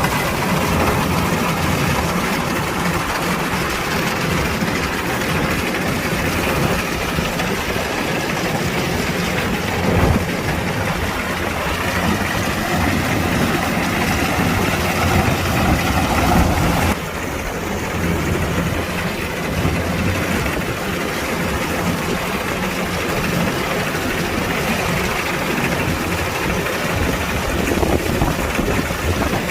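Kubota DC-105X combine harvester's diesel engine running steadily with machinery rattle, a single knock about ten seconds in and a slight drop in level about seventeen seconds in.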